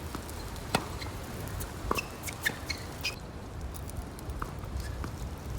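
Strong wind buffeting the microphone as a steady low rumble, with scattered sharp clicks and short high squeaks at irregular times.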